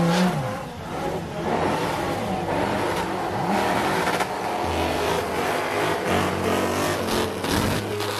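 Drift cars' engines revving as the cars slide past, the engine note rising and falling repeatedly over tyre and road noise.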